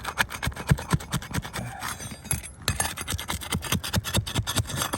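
Rapid, irregular scraping and clicking of a hand tool prying under asphalt roof shingles to break their sealant strip and work the nails loose.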